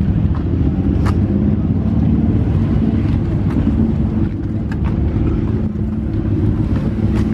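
Car engines running at a steady low rumble, with a couple of short sharp clicks, about a second in and near the end.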